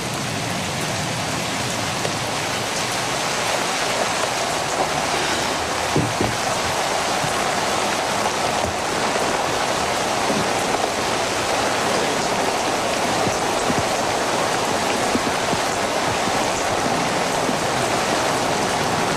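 Steady rain pouring down, a dense even hiss with a few faint drip ticks.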